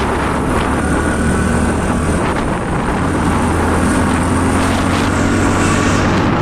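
Motorcycle engine running steadily while riding, with wind on the microphone.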